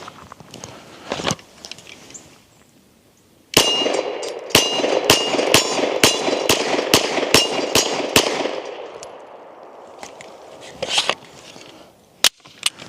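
About ten rapid shots from a 9mm Glock 17L pistol, roughly two a second, each followed by the ringing clang of a struck steel target.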